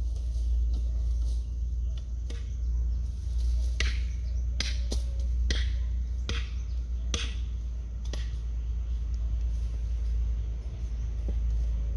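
Repeated sharp strikes of a hand tool, irregular and roughly once a second, over a steady low rumble.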